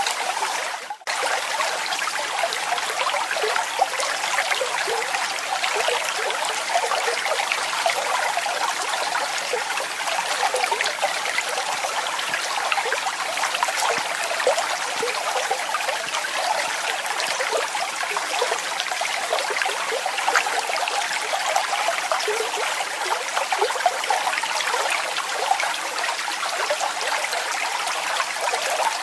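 Waterfall: water falling and splashing steadily, a bright rush with little deep rumble, with a brief dip in level about a second in.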